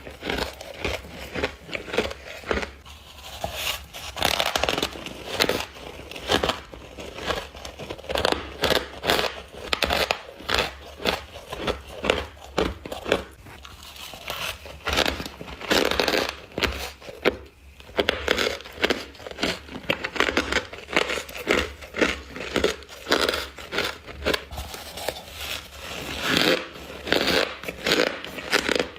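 Close-miked crunching of humidifier frost and crushed ice being bitten, a rapid series of crisp crunches several a second with short pauses between mouthfuls.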